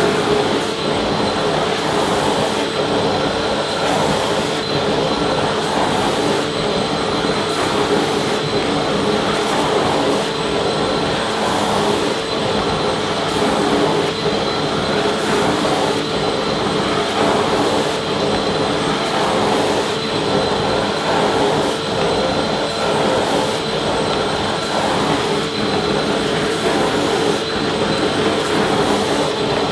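Vacuum cleaner running steadily: the rush of air with a constant motor whine, unchanging in level.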